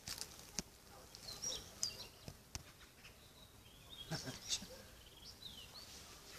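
Small wild birds chirping on and off, short high calls, some falling in pitch, with a few sharp clicks scattered through.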